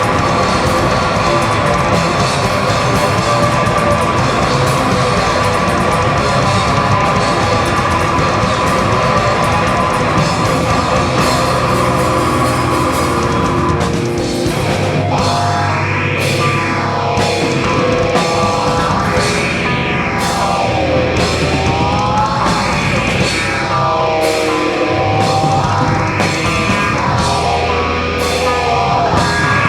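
Live heavy rock band playing an instrumental passage, loud distorted electric guitars over a drum kit. About halfway through, the dense wall of sound opens into swells that rise and fall every three or four seconds.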